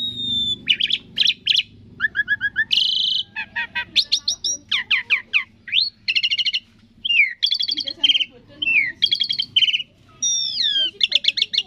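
Asian pied starling (jalak suren) singing a fast, varied song: quick runs of repeated notes, whistled glides that slide down and up, and chattering phrases one after another with only brief pauses.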